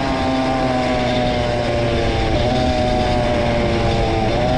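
Honda CR two-stroke dirt bike engine running at a fairly steady speed while riding, its pitch dipping slightly twice.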